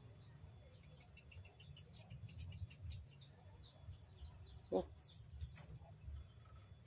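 A small bird chirping faintly in the background, a quick series of short, high, falling chirps that thins out after about four seconds. A single short, lower call sounds about five seconds in.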